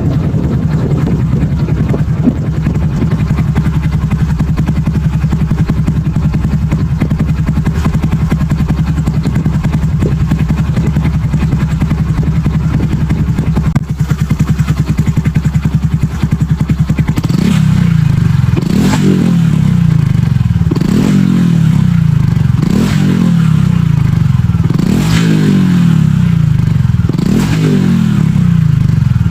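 Honda Super Cub's single-cylinder four-stroke engine breathing through a BEAMS aftermarket muffler, idling steadily. From about two-thirds of the way in it is revved again and again, the note rising and falling back about once every two seconds.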